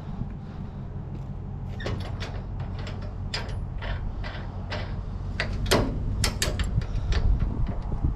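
A run of sharp knocks and clanks, irregular and getting louder after the first couple of seconds, over a steady low engine hum.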